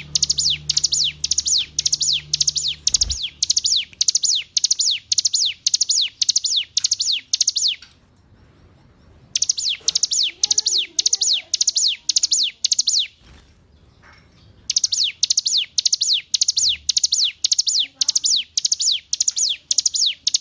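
Ciblek gunung (mountain prinia) singing: a rapid series of high, sharp, downward-sweeping notes at about two a second, in three long bouts broken by two short pauses.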